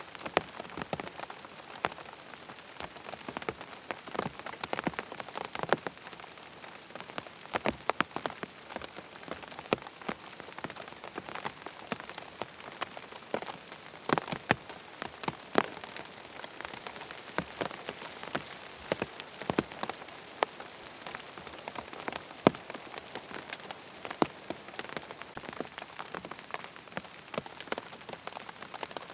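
Steady rain falling, with many sharp, irregular drop hits on a surface.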